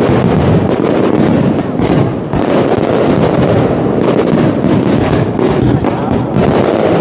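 Large fireworks display: a dense, unbroken barrage of firework bangs and bursts running together, dipping briefly about two seconds in.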